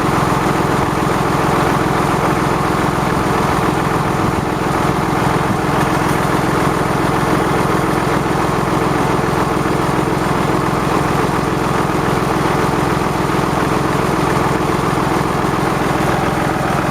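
An engine running steadily at idle, an even low hum with a fast regular pulse.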